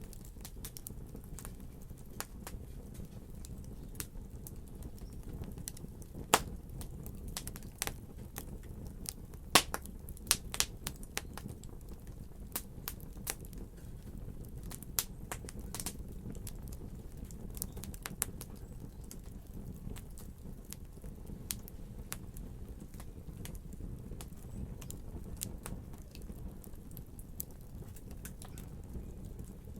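Fire burning in a fireplace: a steady low rumble with irregular sharp crackles and pops, a few of them much louder than the rest.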